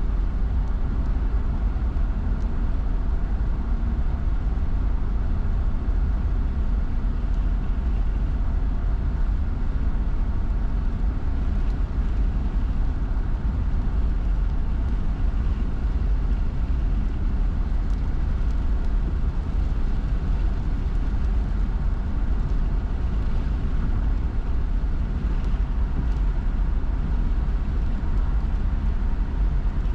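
Steady road noise of a car driving: a constant low rumble with tyre hiss from wet pavement.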